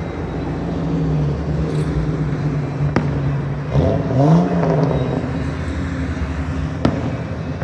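A car engine running steadily nearby, revved up and back down once about four seconds in. Three sharp firework bangs cut across it: one at the start, one about three seconds in and one near the end.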